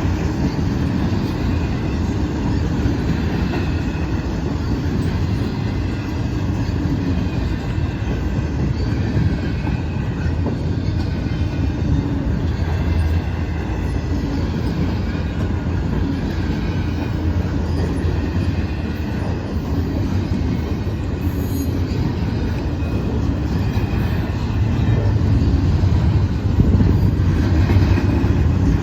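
South Shore Line electric train rolling on the rails: a steady, loud rumble of wheels on track with faint squealing tones above it, growing a little louder near the end.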